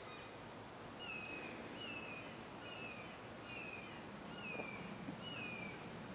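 A bird calling a series of six short, falling whistled notes at an even pace, over a steady outdoor hiss.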